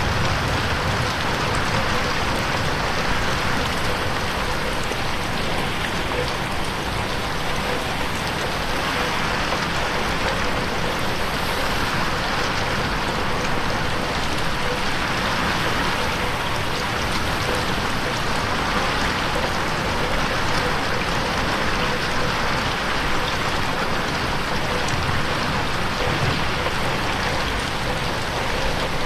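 Steady rain falling on a window, an even hiss of drops.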